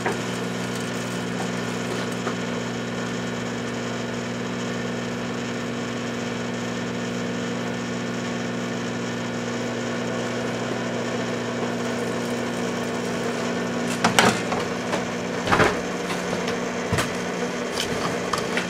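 Microwave oven running with a steady low hum. Several sharp cracks and pops sound over its last few seconds.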